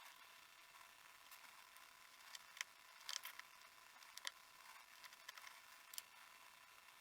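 Faint, scattered clicks and light taps of small parts being handled, with a cluster of them about three seconds in, over near silence.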